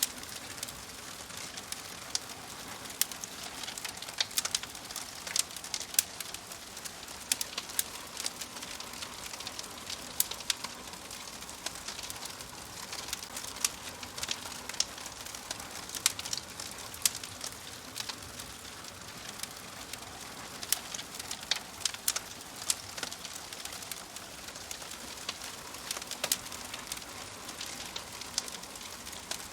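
Wood fire in a fireplace crackling: a steady soft hiss with frequent sharp, irregular pops and snaps.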